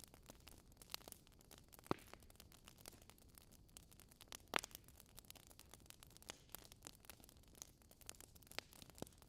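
Logs burning in a fireplace, crackling softly with frequent small snaps and two louder pops, about two seconds in and again about four and a half seconds in.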